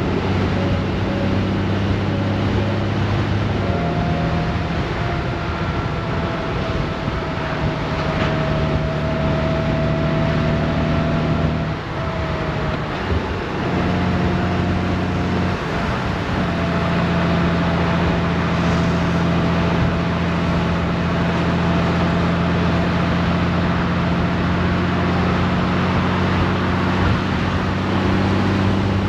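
Honda Gold Wing DCT's flat-six engine running under way, with wind and road noise rushing over it. The engine note steps up and down in pitch a few times, around 4, 12 and 16 seconds in.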